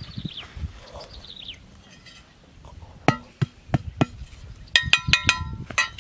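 Falling whistled bird calls during the first second or so. Then a series of sharp knocks, the loudest about three to five seconds in, several of them leaving a short ringing tone.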